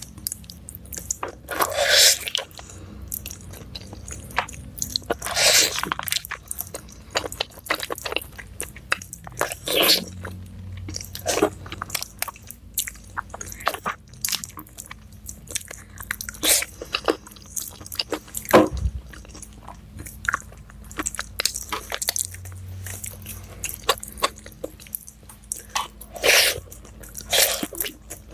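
Close-miked eating: a person biting and chewing a piece of meat torn apart by hand, with many irregular crunchy clicks and a few louder bites, the loudest about two-thirds of the way in.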